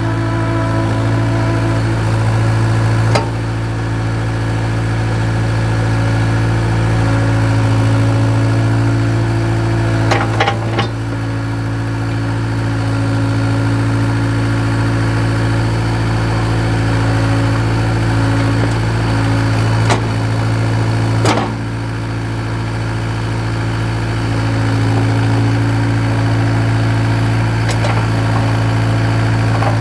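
An engine running steadily at a constant speed, with a few sharp knocks spread through.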